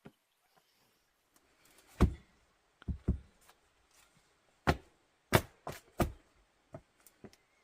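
A series of irregular sharp knocks or thuds, about eight of them, starting about two seconds in, with the loudest strikes near the start and the middle.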